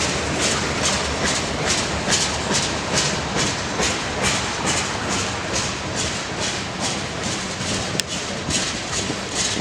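Railroad cars rolling past, their wheels clacking over the rails in an even rhythm of about two or three clacks a second.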